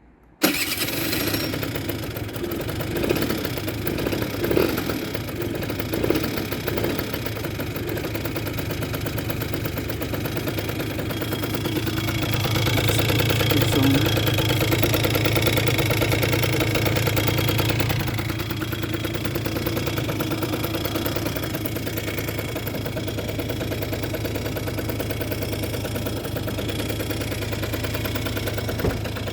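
A Kymco Super Fever ZX 50cc two-stroke scooter engine starts suddenly about half a second in and keeps running. It gives a few short blips of throttle in the first several seconds and runs louder for several seconds in the middle, then settles back to idle.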